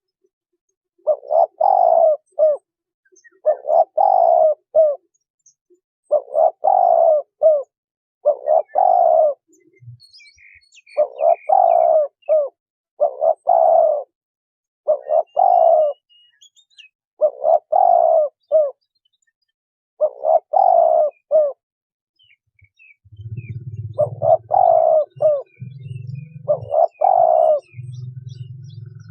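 Spotted dove cooing, the same short three-to-four-note phrase repeated about every two seconds. A low hum joins in near the end.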